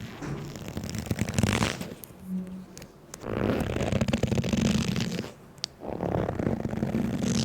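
Bursts of close rustling and rubbing noise, each a second or two long, with short pauses between them.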